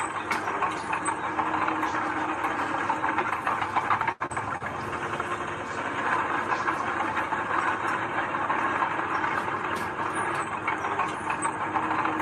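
Heavy diesel earthmoving machinery running steadily with a rattling clatter. The sound drops out for a moment about four seconds in.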